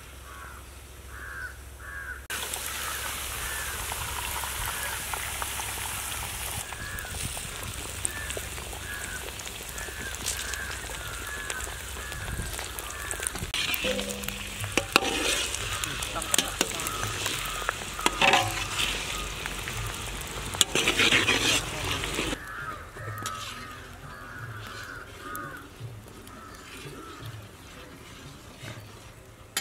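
Beaten eggs frying loudly in hot oil in an iron kadai, with a long metal spatula scraping and stirring in the pan in sharp clicks over the middle part. The sizzle cuts off suddenly about two-thirds of the way through, leaving only quieter cooking sounds.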